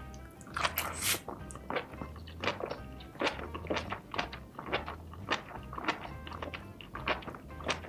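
Close-miked chewing of a mouthful of spicy rice cake and fish cake: short wet smacks and clicks about every half second. Background music with a steady low beat plays throughout.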